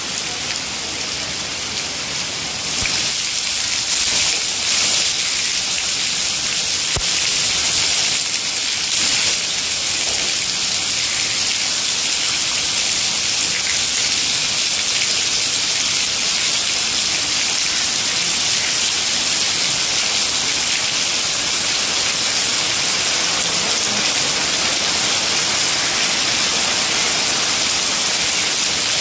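Steady rain falling on a muddy puddle and wet ground: a dense, even hiss of drops splashing on the water, growing a little louder about three seconds in.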